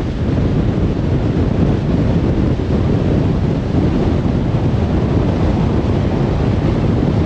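Car driving on the road: a steady low rumble of tyre and wind noise with no single event standing out.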